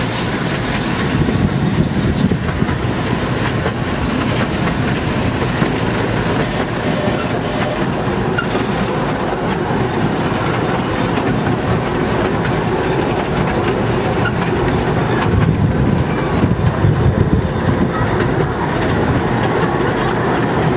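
Steady rumble and rattle of a small open-sided amusement-park train's carriages running along the track, heard from aboard, with many small clicks and knocks.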